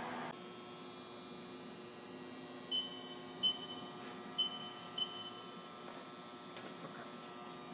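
Steady electrical hum from an idle CNC lathe, with four short electronic beeps from its control panel spread over a couple of seconds near the middle. A louder running noise cuts off just after the start.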